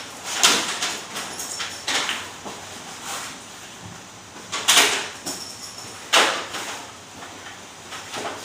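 Fabric cab covers being pulled off and rolled up, rustling and swishing in a series of bursts, the loudest about half a second, two, nearly five and six seconds in.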